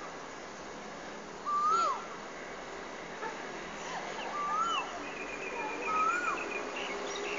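Birds calling. One clear whistled note rises and then drops, repeated about every two seconds. A quick run of higher chirps comes about five seconds in.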